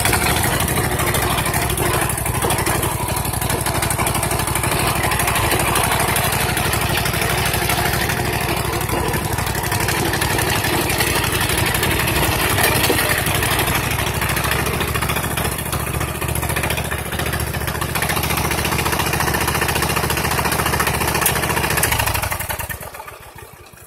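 Rebuilt 21 hp V-twin engine of a riding mower running steadily at a fixed speed, with no throttle control hooked up. Near the end it shuts off and winds down.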